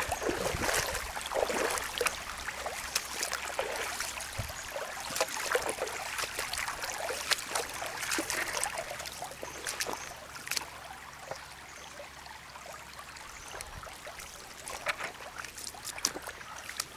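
Shallow, rocky creek trickling, with irregular footsteps knocking and scuffing on creek stones as someone walks along it.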